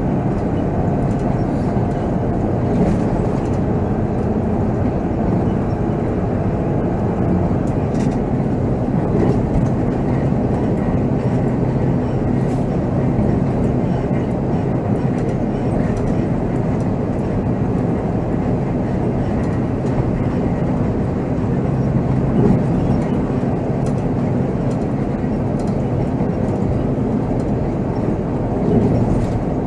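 Volvo B7R coach's diesel engine and road noise heard from the driver's seat, a steady running hum with a few faint clicks and rattles.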